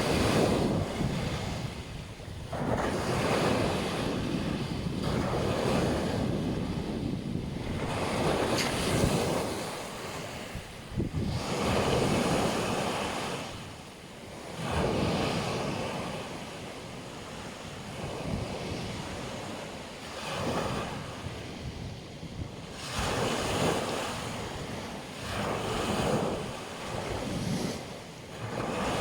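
Black Sea surf breaking on a beach, waves washing in and drawing back one after another every few seconds.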